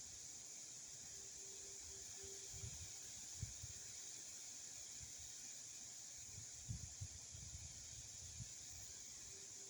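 Faint low rumbles of wind buffeting the microphone, over a steady hiss. The stronger gusts come about three seconds in and again about seven seconds in.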